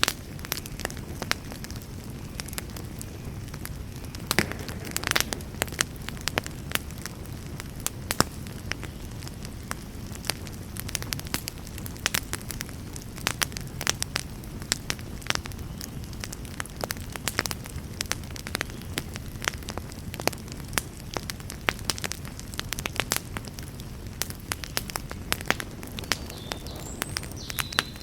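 Wood fire in a fireplace burning steadily, with a continuous low rumble under frequent, irregular sharp crackles and pops.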